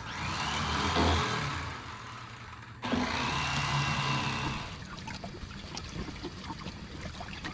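Electric fillet knife running as crappies are filleted, in two stretches: the motor hum and cutting hiss start again abruptly about three seconds in and die away near five seconds, followed by light clicks of handling.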